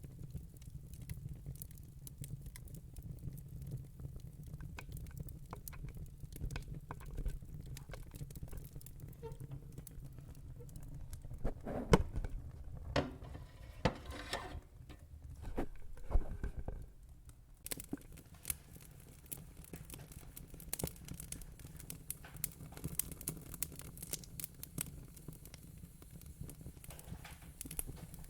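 Wood fire in a fire pit crackling, with many small scattered pops over a low steady rumble and a cluster of louder snaps about halfway through.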